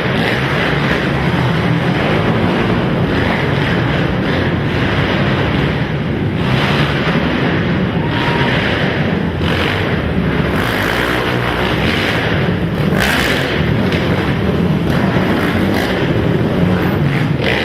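Several racing quad (ATV) engines running and revving together, loud and steady, with the pitch swelling now and then as riders open the throttle.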